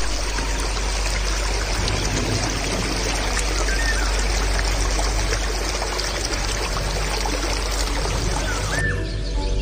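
Steady rush of flowing water, with a couple of faint bird chirps; the sound cuts off suddenly about nine seconds in.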